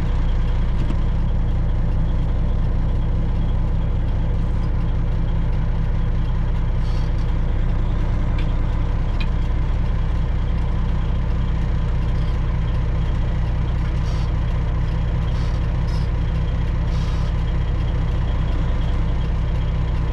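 Freightliner Classic XL semi truck's diesel engine running steadily at low speed, a constant deep drone.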